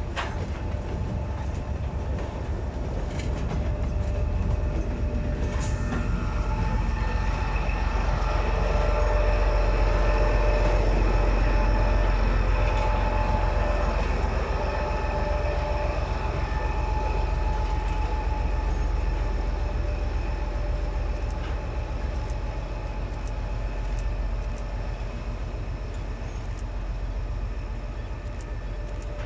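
A train rolling past on the rails: a steady heavy rumble of wheels with thin, high ringing tones and a few clicks over it. It is loudest about ten seconds in and slowly eases off.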